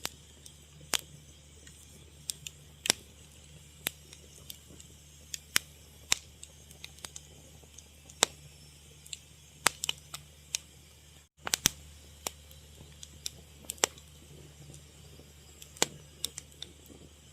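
Fire crackling: irregular sharp pops and snaps, a few a second at most, over a faint steady low hum, with a brief dropout to silence about eleven seconds in.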